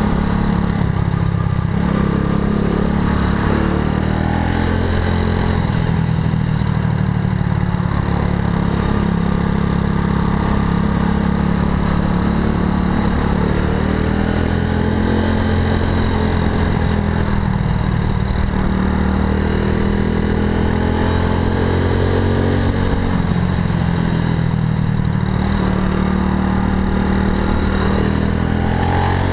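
Zongshen 190 cc single-cylinder four-stroke engine of a Honda Super Cub–style motorcycle running under way, its pitch rising and falling several times as it pulls up and eases off in stop-and-go traffic, over steady wind and road noise.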